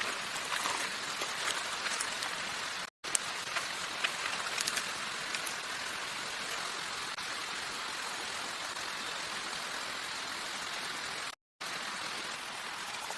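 Steady rain hiss with scattered sharp drop ticks. It cuts out abruptly twice for a moment.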